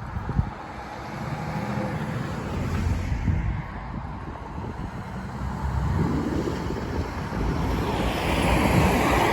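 Road traffic driving past, with two vehicles swelling louder about six and eight seconds in, over wind buffeting the microphone.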